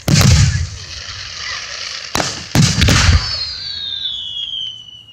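Aerial fireworks bursting: a loud bang at the start and three more in quick succession about two to three seconds in, with crackling between them, then a high whistle falling in pitch near the end.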